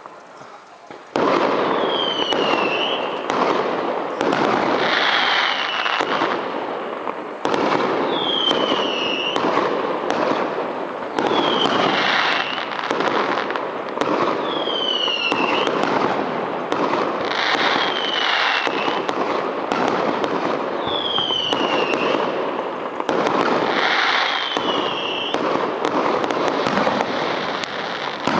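Fireworks display: a dense, continuous barrage of launches and bursts that starts suddenly about a second in, with high whistles falling in pitch recurring every few seconds.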